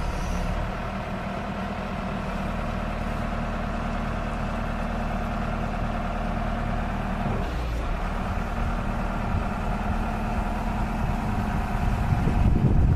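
Case 580 Super M backhoe's four-cylinder diesel engine idling steadily, with a brief change in its tone about seven and a half seconds in. Wind buffets the microphone near the end.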